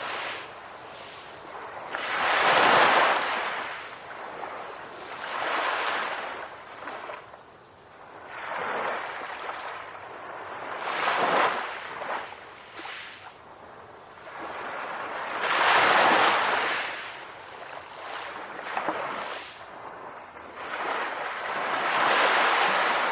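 Ocean waves washing onto a shore, the surf swelling and fading in repeated surges every few seconds, loudest about three seconds in, around sixteen seconds and near the end.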